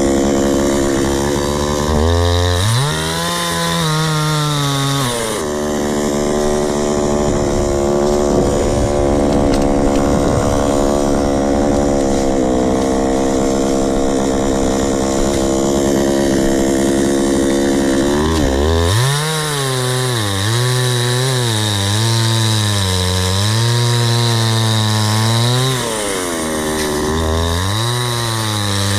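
Chainsaw cutting through a log for firewood. The engine runs at a steady high speed for long stretches, and its pitch wavers up and down as it works in the cut from about two to five seconds in and again for the last ten seconds.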